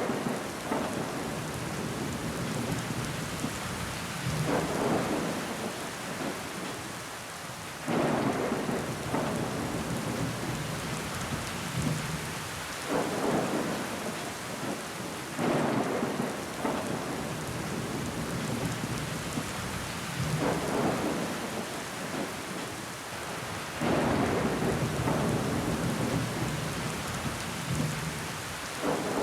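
Steady rain pattering on window glass with water trickling down it, swelling louder every few seconds.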